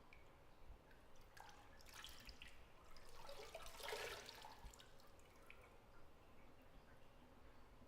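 Faint bathwater sounds: scattered drips and small plinks, with a brief, louder swish of water about four seconds in.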